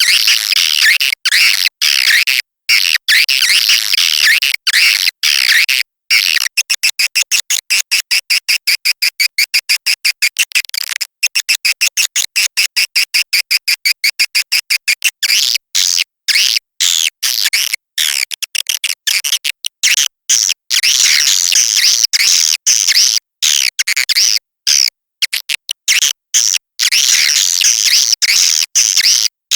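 Recorded edible-nest swiftlet call track of the kind played to lure swiftlets to a bird house: dense, high-pitched twittering chirps that cut in and out abruptly. From about six seconds in to about fifteen, the chirps come as a rapid, evenly spaced series, several a second.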